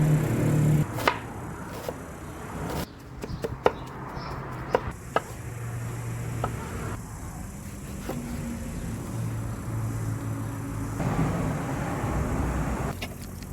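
A series of sharp, irregularly spaced chopping knocks, about eight in all. The background underneath changes abruptly several times.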